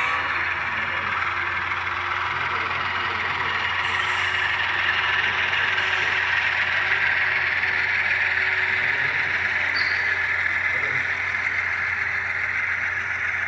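Sound decoder in an HO scale ES44AC model playing GE GEVO diesel locomotive sounds through its small onboard speaker, a steady engine sound with a constant low hum.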